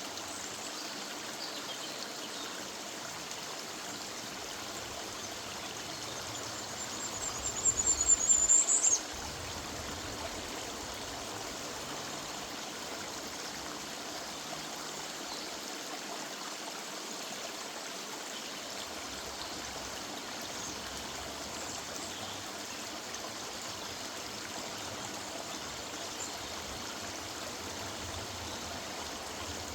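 River water running steadily over a woodland streambed. About a quarter of the way in, a small bird sings one rapid, high-pitched trill that grows louder and stops abruptly.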